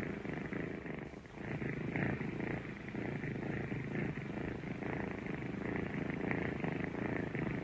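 Kittens purring in a continuous, rapidly pulsing rumble, with a brief lull a little after one second in.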